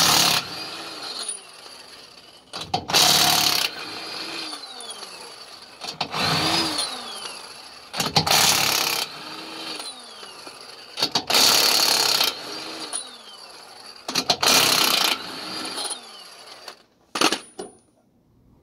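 Impact wrench hammering on a stuck trailer lug nut in about six bursts of a second or so, a few seconds apart. After each trigger pull the motor's whine falls in pitch as it spins down. The nut is not yet breaking loose.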